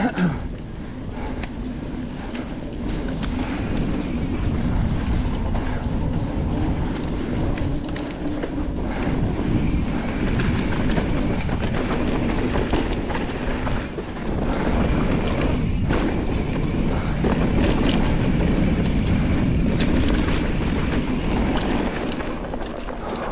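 Nukeproof Reactor full-suspension mountain bike ridden fast over a rough dirt trail: the tyres rumble continuously over a dense run of clicks and clatters from the frame. The clatter includes the rattle of an internally routed cable whose grommet has worked loose.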